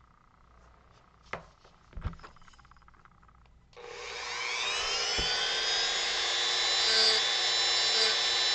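A couple of light knocks, then about four seconds in a Dremel rotary tool spins up with a rising whine and runs steadily at high speed, carving into the wood.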